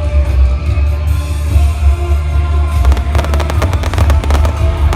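Loud music with a heavy bass beat; about three seconds in, fireworks go off in a rapid, irregular string of sharp cracks over it.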